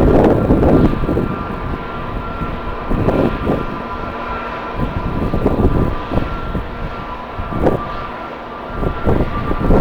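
Jet airliner engines running with a steady whine, under strong wind buffeting the microphone in gusts that swell and fade several times.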